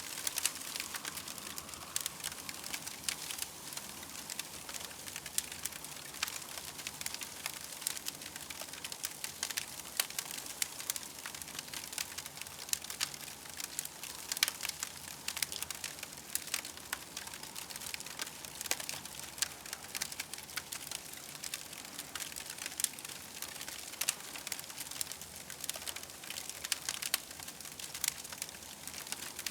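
Campfire crackling: a steady high hiss with many irregular sharp pops and snaps.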